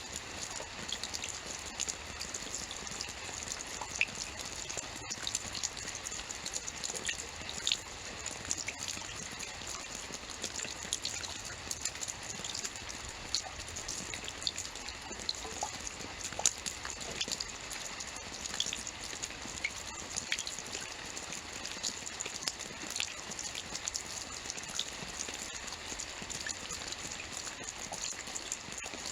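Steady rainfall with many small scattered drop ticks over an even hiss.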